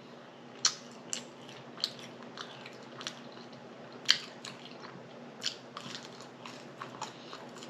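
Close-miked chewing, with wet lip smacks and sharp mouth clicks coming irregularly every half second to a second.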